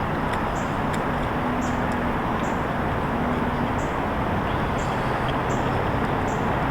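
Steady background rumble and hiss with a faint low hum, and light high ticks about once a second.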